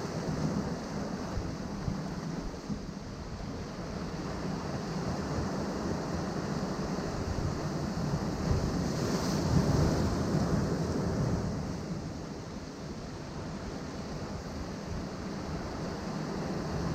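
Ocean waves surging and breaking against rocks, with a swell that builds to a peak about nine to ten seconds in and then eases off; wind buffets the microphone.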